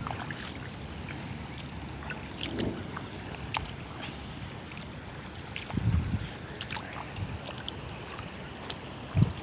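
Wind rumbling on the microphone, with scattered light ticks and two dull thumps, one about six seconds in and one near the end.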